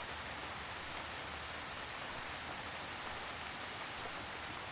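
Steady gentle rain, an even hiss with faint scattered drop ticks.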